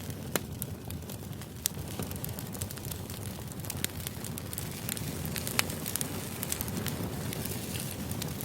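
Steady white-noise ambience, a low rumbling hiss with irregular sharp crackles and clicks scattered through it.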